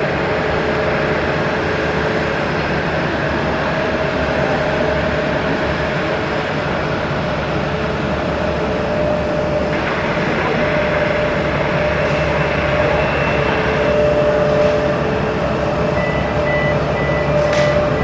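Steady, loud jet engine noise from an airliner on the ground, an even rumble with a steady hum running through it.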